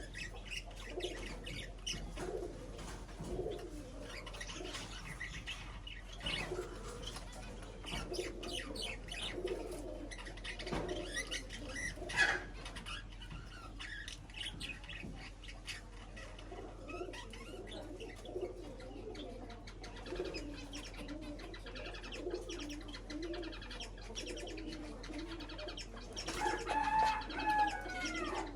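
Birds calling at a feeding spot: repeated low warbling coos, scattered chirps and many short sharp clicks, with a louder call near the end.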